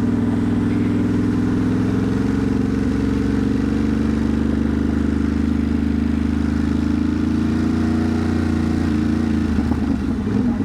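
Ducati Monster's V-twin engine running at a steady speed, with a slight change in engine note about nine seconds in.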